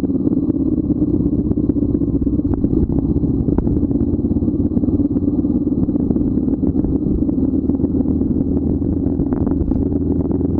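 Motorcycle engine running steadily under way, a continuous even drone with no change in speed.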